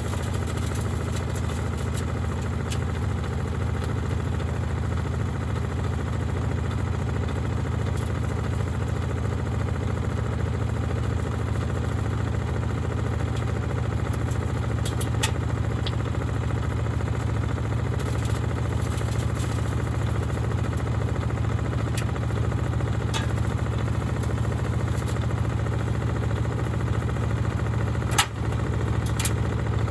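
Gorenje SensoCare washing machine running with heavy bricks in the drum: a steady low hum with scattered light clicks and one sharper knock near the end.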